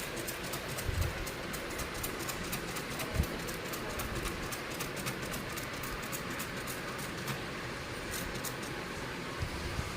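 Window air conditioner running with a steady rushing noise, overlaid by rapid, irregular clicking and a couple of low thumps.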